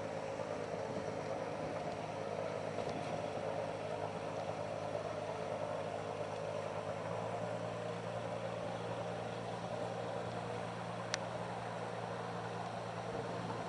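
A sailboat's inboard engine running steadily, heard aboard as an even hum, with a single sharp click near the end.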